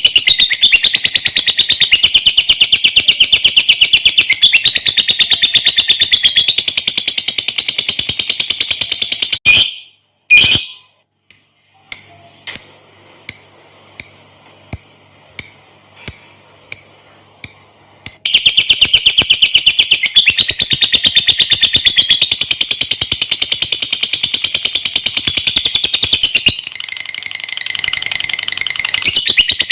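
Lovebird singing its long, rapid, high-pitched chattering trill (ngekek panjang). About nine seconds in it breaks off for two loud calls and a run of single chirps at about two a second, then resumes the long trill about eighteen seconds in.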